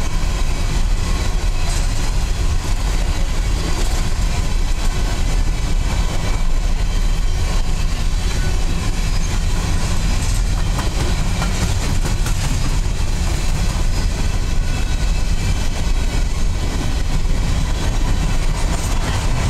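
Coal hopper cars of a freight train rolling steadily past, a continuous noise of steel wheels running on the rails.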